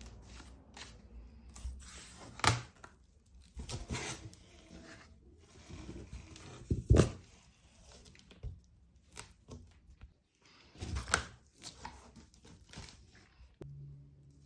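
Objects being handled by hand: irregular knocks and thuds with rustling and scraping in between, the three loudest thuds about two and a half, seven and eleven seconds in.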